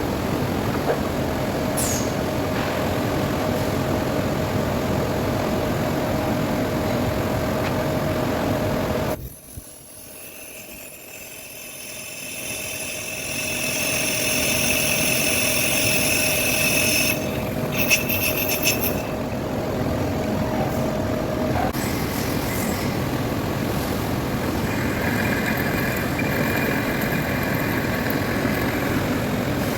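Metal lathe running and cutting, a steady mechanical noise with a constant hum. About nine seconds in the sound drops suddenly, then builds back with a high whine of the tool on the metal. A different high whine comes near the end.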